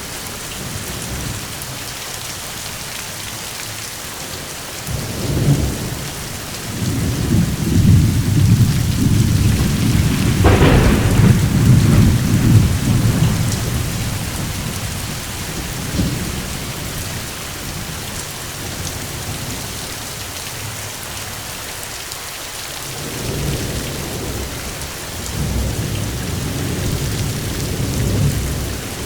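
Steady rain falling, with thunder rumbling: a long, loud roll of thunder with a sharp crack in its middle about a third of the way in, and softer rumbles near the end.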